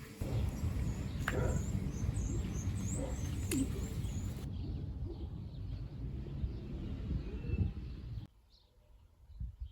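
Small birds chirping high and thin over a heavy low rumbling noise. The rumble cuts off abruptly about eight seconds in, and faint bird chirps carry on over near quiet.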